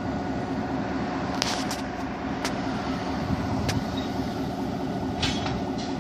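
Colebrookdale Railroad train with locomotive 7236 running, a steady rumble with a few held tones, broken by half a dozen sharp metallic clicks.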